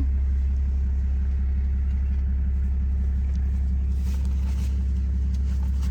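Safari vehicle's engine running, a steady low drone heard from inside the vehicle.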